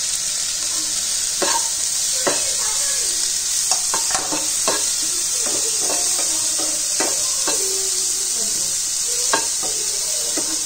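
Chopped onions, tomatoes, peas and chillies sizzling in butter in a non-stick kadhai, the masala base frying down. A spatula stirs and scrapes through the vegetables, with irregular sharp knocks against the pan over the steady sizzle.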